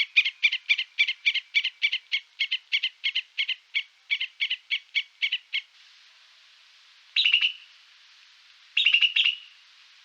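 An animal, most like a bird, calling: a rapid, even run of short chirps at about four a second for several seconds, then two brief bursts of quick clicking calls near the end.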